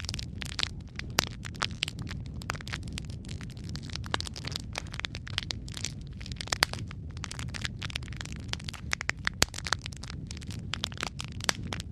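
Wood fire crackling: a steady low rumble of flame under dense, irregular snaps and pops, with a few sharper cracks standing out.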